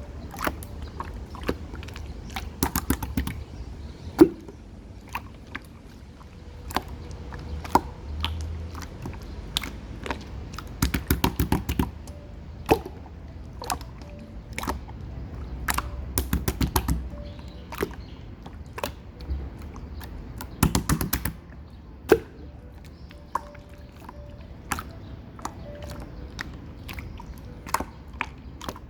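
Clear slime being squeezed, poked and stretched by hand, giving sharp popping and clicking sounds as air pockets burst, some in quick bursts of several pops.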